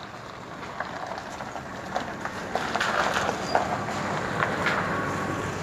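City bus engine running and growing louder about two seconds in as the bus pulls up, with scattered short knocks.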